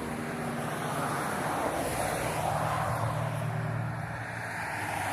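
A motor engine running steadily with a low hum over a constant background rush.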